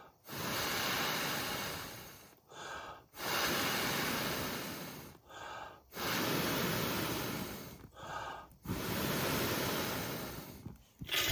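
A person blowing long, steady breaths into a smouldering tinder bundle to bring an ember from flint and steel up to flame: four blows of about two seconds each, with a quick in-breath between them and a short, sharp puff near the end.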